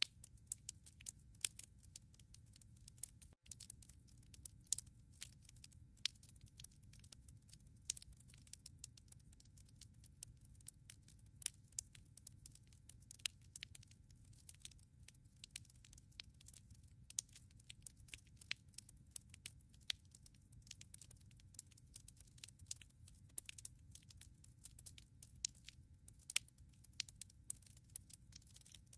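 Wood fire crackling in a fireplace: a steady irregular scatter of sharp snaps and pops, some louder than others, over a soft low rumble of flame.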